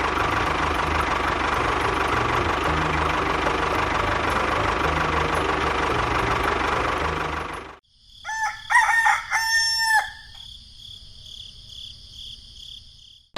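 A small engine runs steadily and then cuts off suddenly. A rooster crows once, about two seconds long, over a high steady pulsing whine that carries on more quietly afterwards.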